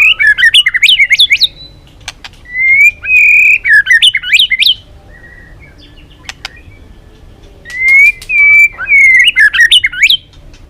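White-rumped shama singing: three loud song phrases with pauses between them. Each opens on a clear held whistle and breaks into a fast run of notes leaping up and down, with short sharp ticks in the gaps.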